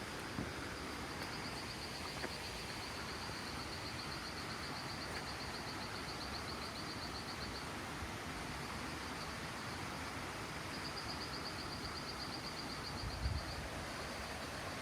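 Outdoor ambience: a steady noisy background with a high, fast-pulsing trill heard twice, each lasting several seconds, and a brief low thump near the end.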